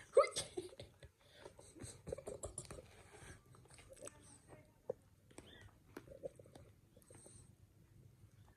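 Kittens mewing in short, high, rising-and-falling calls in the first second, then scattered faint clicks and a few small squeaks as they move about.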